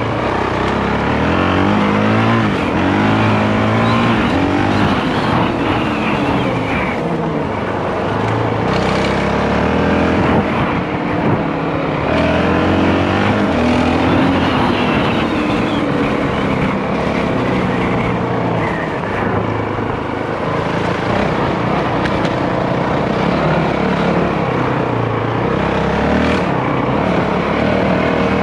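Single-cylinder four-stroke dirt bike engine riding along a rough bush track, its revs rising and falling over and over as the throttle is worked, with wind and track noise.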